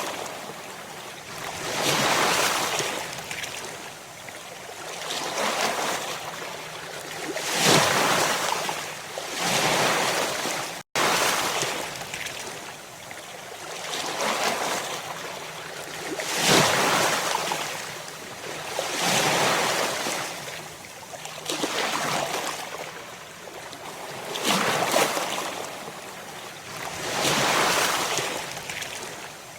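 Ocean waves breaking and washing in, each surge swelling and fading every two to three seconds. There is a split-second dropout about eleven seconds in.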